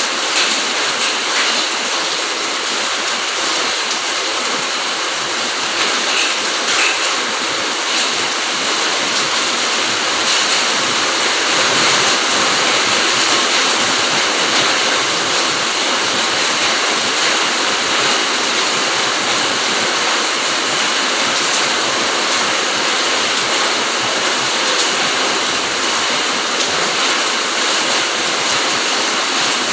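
Steady heavy rain falling on foliage and the ground, a dense even hiss with scattered faint drips.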